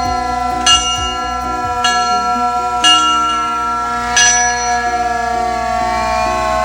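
A metal bell struck about once a second, six strikes in all, each ringing on over the last; the ringing tones slide slightly lower near the end.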